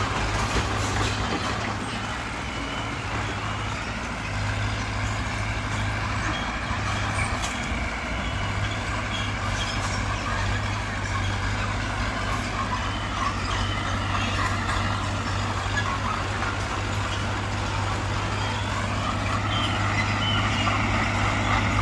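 Diesel engine of heavy earthmoving machinery running under load, with a steady low drone and a higher whine that slowly rises and falls in pitch.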